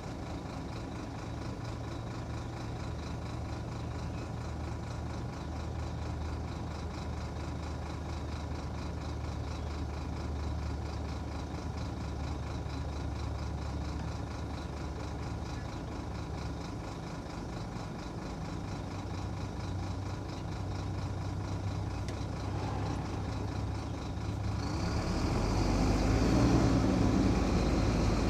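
Heavy diesel engine running steadily under load, building louder near the end.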